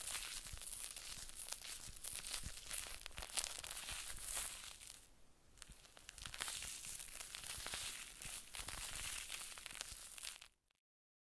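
Close, dense crinkling and crackling with many fine clicks. It eases off briefly about five seconds in, then cuts off abruptly to dead silence near the end.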